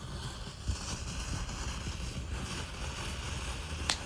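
Wind rumbling on the microphone over a steady hiss, with one sharp crack near the end.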